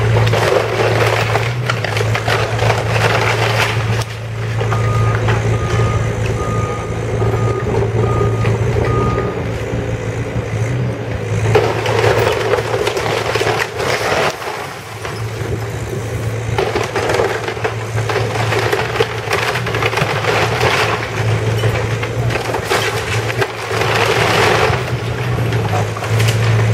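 Demolition machinery's diesel engine running steadily while the house's structure is crushed and broken apart, in repeated crunching, cracking surges. A reversing alarm beeps about seven times from about five seconds in.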